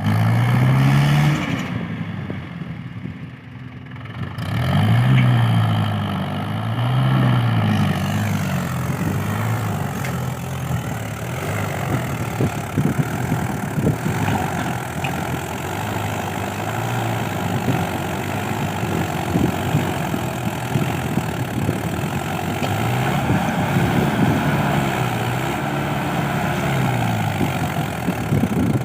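Mahindra 575 tractor's four-cylinder diesel engine running, its revs rising and falling several times, with a short drop in level near the start and a rattling clatter through most of it.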